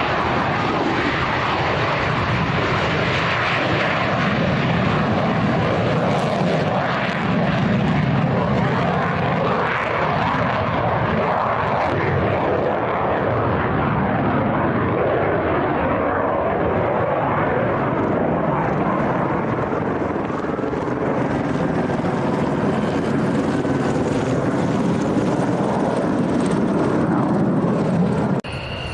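Military aircraft engines running loudly at an air base: a steady, dense roar that holds for nearly half a minute and cuts off abruptly near the end.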